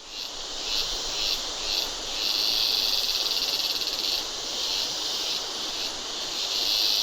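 High buzzing insect calls in rainforest ambience. The calls come in short bursts about twice a second, then as a steady buzz lasting about two seconds, then in short bursts again, with another long buzz near the end, over a soft background hiss of the forest.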